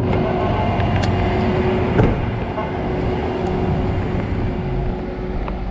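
Vehicle engine running steadily: a low rumble with a steady hum over it and a couple of light clicks.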